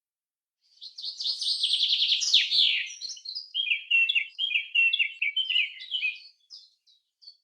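A songbird singing: a fast, high trill, then a run of repeated chirping phrases, and a few short separate notes near the end.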